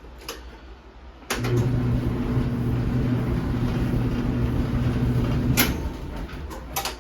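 Electric clothes dryer switched on with a click and running briefly with a steady, loud hum and drum noise, then cut off with a click about four seconds later.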